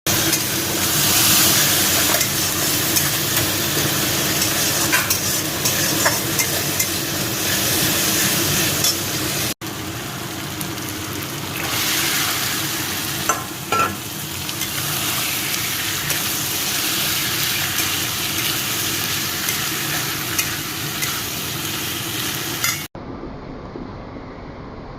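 Food sizzling and frying in a pan while being stirred, with occasional sharp clicks and scrapes of a spatula against the pan. The sound breaks off briefly twice, and near the end it drops to a quieter, duller hiss.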